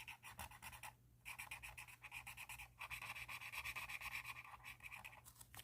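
A pen scribbling rapidly back and forth on paper, several strokes a second, in runs broken by a short pause about a second in and a brief one near three seconds.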